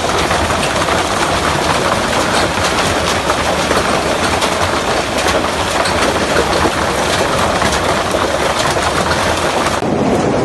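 Heavy hail pelting hard surfaces, a dense, continuous clatter of countless impacts mixed with the rush of torrential rain. A little before the end it changes abruptly to a duller, lower rush.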